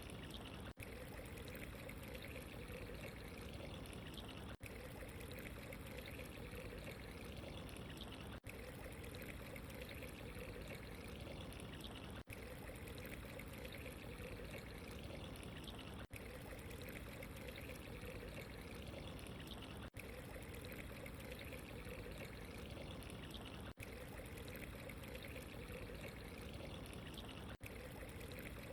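Steady running, trickling water, broken by a very brief dropout about every four seconds.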